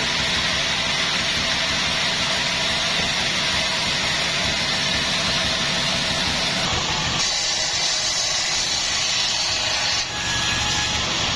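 Sawmill saw cutting through a jackfruit log: a steady hiss of sawing over the running machine. About seven seconds in, the low machine sound drops away and a brighter hiss remains.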